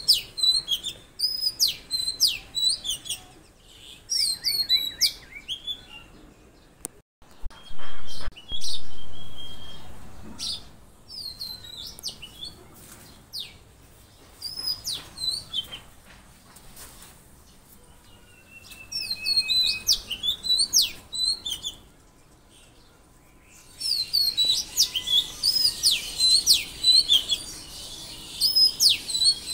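Songbirds chirping in quick runs of short, high sweeping notes, with pauses between runs and a denser burst of chirping near the end. About seven to eight seconds in there are two sharp clicks.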